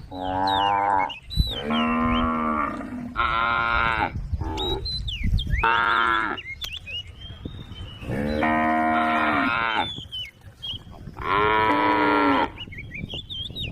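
A group of cattle mooing in turn: about seven long, steady-pitched moos, the longest near two seconds, with short gaps between them.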